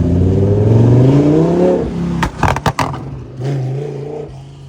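A car engine accelerating hard, its note rising for about two seconds, then a few sharp cracks, and a shorter, lower engine note that dies away as the car moves off.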